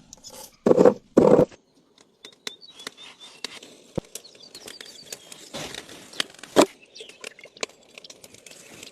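Cooking preparation handling noises: scattered scrapes, crinkles and small clicks and knocks. Two short, loud pitched sounds come about a second in.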